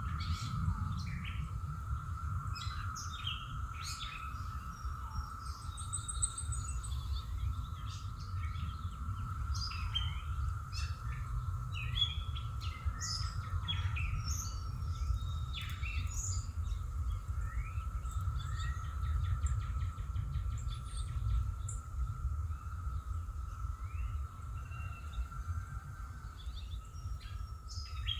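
Several birds chirping and calling in short, scattered notes, over a steady high-pitched tone and a constant low rumble.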